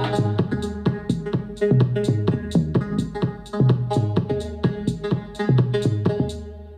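Electronic music with a steady beat played through a Bang & Olufsen Beosound Explore portable Bluetooth speaker at 75% volume, fading out near the end.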